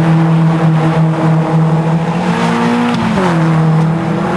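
Racing car engine running at steady high revs. The note climbs slightly, then drops sharply about three seconds in as the revs fall, and runs steady again.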